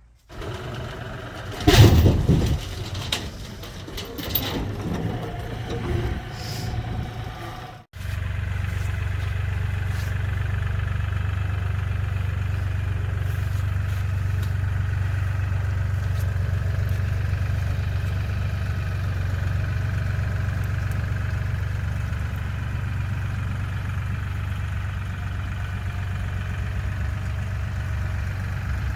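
A few seconds of knocks and rattles, the loudest about two seconds in, then an LS MT235 compact tractor's diesel engine running steadily with a low, even hum.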